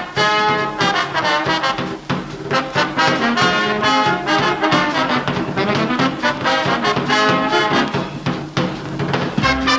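Big-band dance orchestra music from a 1956 mono recording, with brass, trombones and trumpets, playing a fast swing number.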